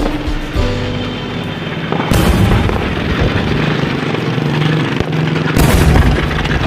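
Two fireworks shells bursting with loud booms, about two seconds in and again about five and a half seconds in, each followed by a rumbling tail.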